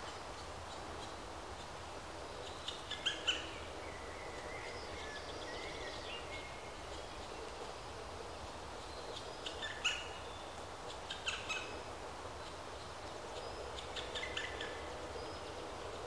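Bird calls: short bunches of sharp chirps about three seconds in, twice around ten and eleven seconds, and again near the end, with a faint thin whistle between them, over steady outdoor background noise.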